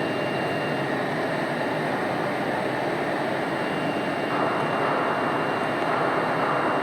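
The Blue Elephant 1530 ATC CNC router's vacuum pump and dust collector running with a steady rushing noise. About four seconds in the noise steps up and turns brighter, as if a further unit has been switched on.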